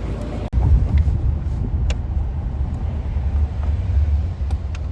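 City street traffic: passing cars with a loud, steady low rumble. There is a brief break about half a second in.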